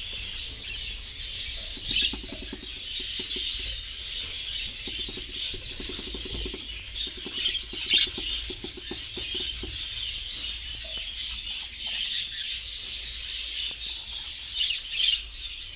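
A flock of budgerigars chirping and chattering continuously, with a single sharp click about eight seconds in.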